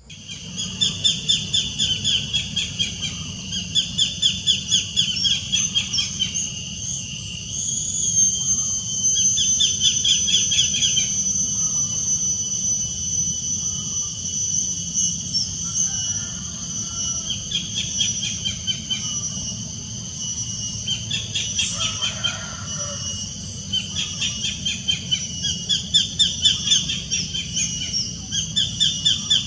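Wild birds singing, a rapid trilling phrase of fast repeated notes, each about a second long, repeated over and over with short gaps. A steady high insect drone and a low even background hum run underneath.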